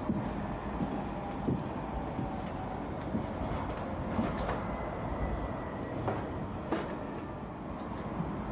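A train running: a steady rumble of the carriage on the rails, with scattered clicks and rattles.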